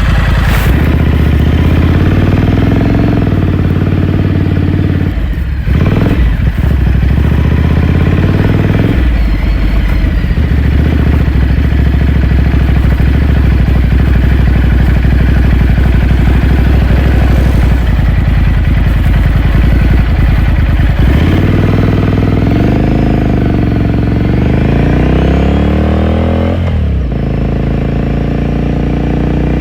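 2018 Ducati Scrambler Sixty2's air-cooled 803 cc L-twin running through its exhaust as the bike is ridden, the engine note rising and falling with throttle and gear changes. It drops off briefly around six seconds in, holds steady through the middle, then climbs and falls again, with a sharp break near the end.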